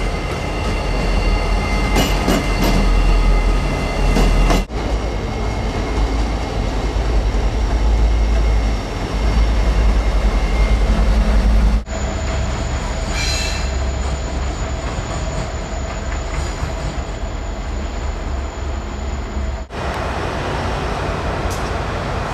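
Trains running past on the tracks in several clips cut together: a steady low rumble of locomotives and rolling railcars. Thin high steady tones sound over it for the first few seconds.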